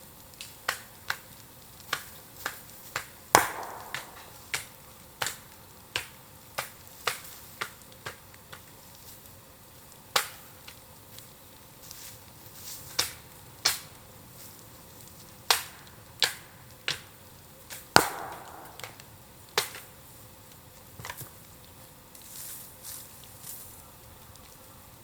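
Burning bamboo crackling, with irregular sharp pops. Two louder bangs, about 3 s and 18 s in, are each followed by a short hiss.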